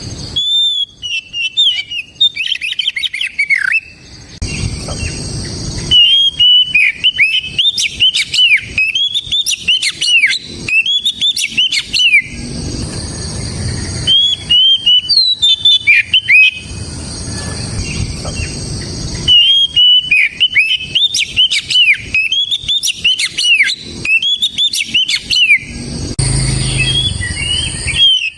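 Oriental magpie-robin (kacer) singing in full voice: loud, clear whistled phrases of rapid notes, many slurring downward, phrase after phrase with short pauses between.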